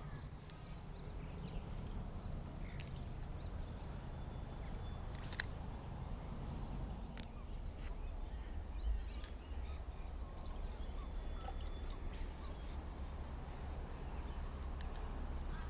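Outdoor ambience by the water: a steady low rumble with a thin, steady high-pitched hiss above it, broken by a few short, sharp clicks.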